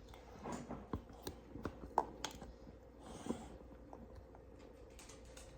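Faint handling noises of Play-doh toys: scattered light clicks and taps over the first few seconds, then quieter, over a faint steady hum.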